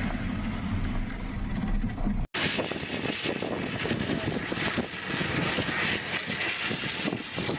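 Vehicle engine and road noise, a steady rumble that is cut off about two seconds in and followed by a noisier stretch with crackling.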